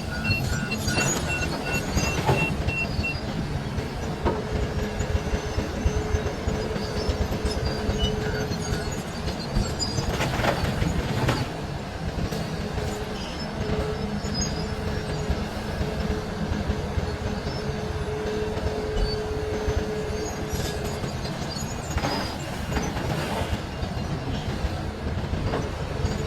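Large Hitachi mining excavator working as it loads overburden: a heavy, steady engine-and-hydraulics rumble with a faint whine that comes and goes. A beeping alarm sounds through the first few seconds, and louder noisy surges come about ten seconds in and again a little after twenty seconds.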